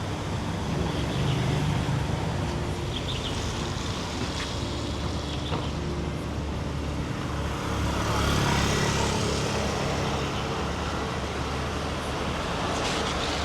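Street traffic noise: a steady rumble of passing road vehicles that swells a little about eight seconds in.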